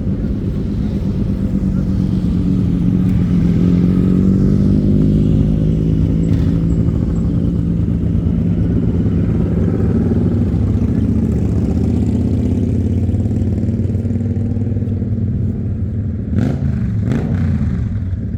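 Motorcycle engines running and passing close by, their pitch rising and falling slowly as the bikes ride in. Two short sharp bursts stand out near the end.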